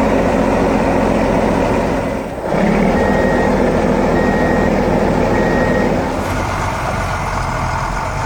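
Truck engine running steadily while a reversing alarm beeps three times in the middle; the engine sound eases off a little near the end.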